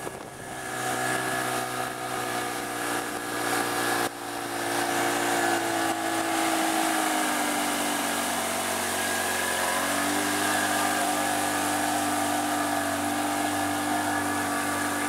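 Johnson 35 hp outboard motor running with a steady engine note, its pitch sinking in the middle and stepping back up about ten seconds in. There is a sharp knock about four seconds in.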